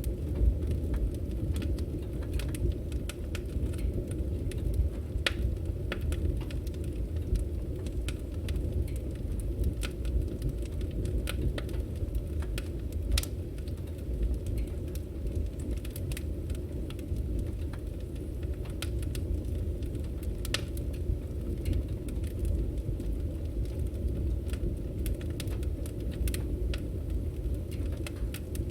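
Firewood burning: a steady low rumble of flames with frequent scattered sharp crackles and pops from the logs.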